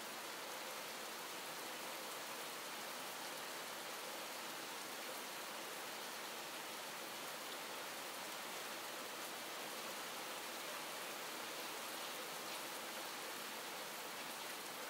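Calm, steady rain falling: an even hiss with a few faint ticks of single drops.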